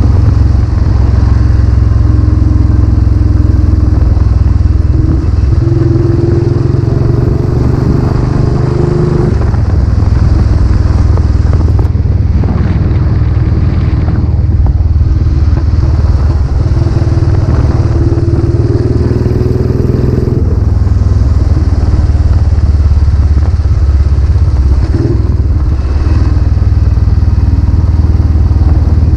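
Royal Enfield Classic 500's single-cylinder engine running on the move through a newly fitted aftermarket silencer, loud and steady, its note shifting a few times as the throttle changes.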